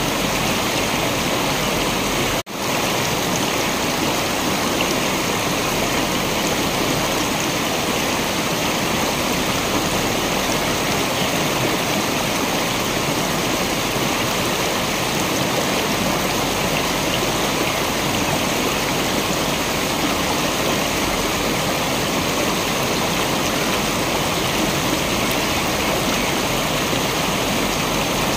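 Waterfall: a steady rush of falling water. It drops out for a split second about two and a half seconds in.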